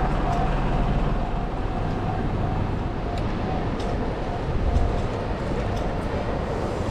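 Train rolling past on the railway line, a steady rumbling noise.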